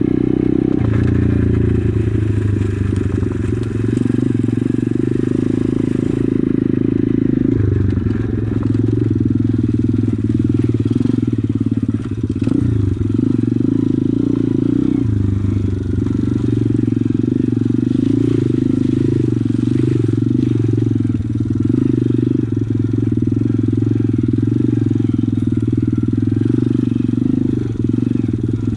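Pit bike's small single-cylinder engine running as the bike rides along, the engine note fairly steady with a few brief dips as the throttle eases.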